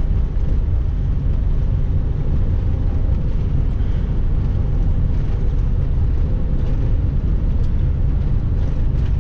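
Semi-truck's diesel engine and road noise inside the cab while driving on the highway: a steady, loud low rumble.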